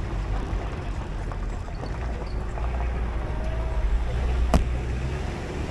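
Tour shuttle vehicle running, a steady low engine and road rumble heard from on board, with a single sharp knock about four and a half seconds in.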